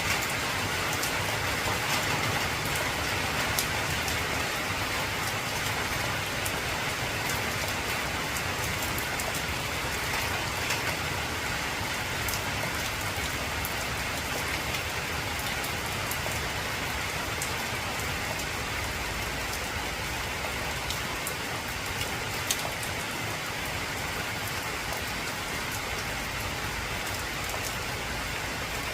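Heavy rain on an old corrugated zinc roof: a steady rushing hiss, dotted with many sharp taps of individual drops striking the metal.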